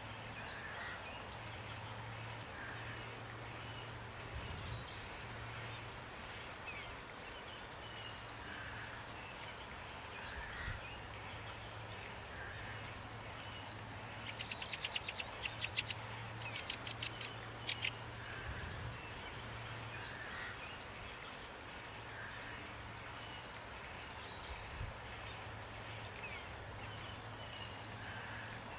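Songbirds chirping and calling over a steady hiss of rain. About halfway through, a bird gives a fast run of repeated notes, several a second for a few seconds, the loudest sound here. A faint low hum runs underneath.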